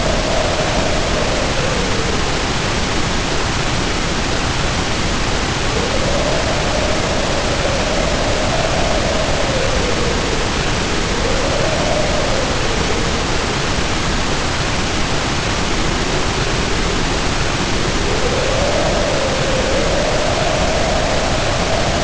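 Storm sound of heavy rain pouring steadily, with the wind howling over it in a wavering tone that rises and falls in slow swells every few seconds.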